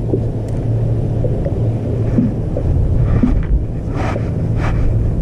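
Wind rumbling on the microphone aboard a small boat, over a steady low motor hum. A few short hissing rustles come between about three and five seconds in.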